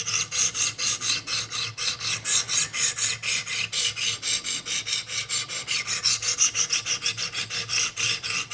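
200-grit diamond stones of a Wicked Edge guided sharpener scraping back and forth along the S90V steel edge of a knife, grinding each side. The strokes come quick and even, about six a second.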